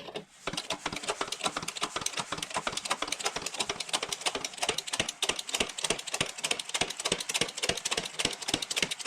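A rapid, uneven series of sharp mechanical clicks, several a second.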